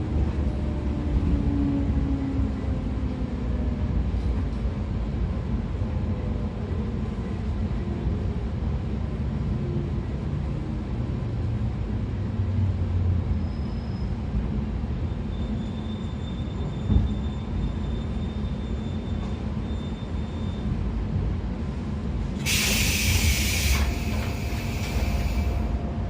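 Interior running sound of a 113 series electric train's motor car, driven by MT54 DC series-wound traction motors: a steady rumble of wheels on rail, with a motor-and-gear whine falling in pitch over the first ten seconds. There is a single knock about seventeen seconds in, and a loud high hiss lasting about three seconds near the end.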